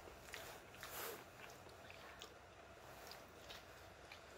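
Faint chewing and wet mouth clicks from a person eating soft chayote, with scattered small ticks.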